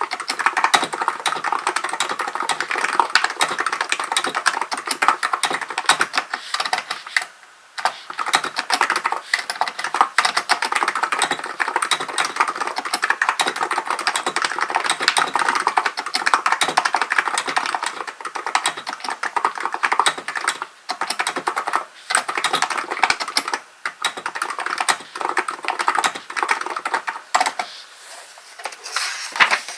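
Steady, fast typing on a Hansung GK898B electrostatic capacitive (non-contact) keyboard: a dense run of keystrokes with a few brief pauses, thinning out near the end.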